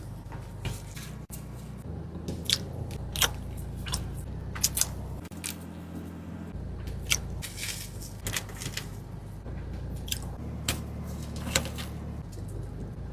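A person eating close to the microphone: crisp, sharp crunches of bites at irregular intervals, several seconds apart or closer, with chewing between them, over a low steady hum.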